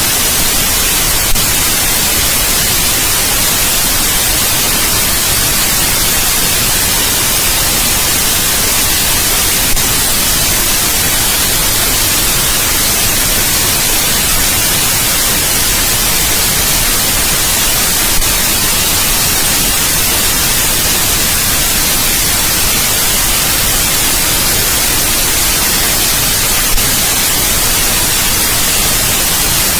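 Steady, continuous white noise: an even hiss, strongest in the high end, with a faint click every eight or nine seconds.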